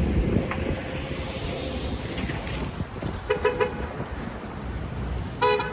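Street traffic running, with a vehicle horn tooting twice in quick short blasts about halfway through and once more, louder, near the end.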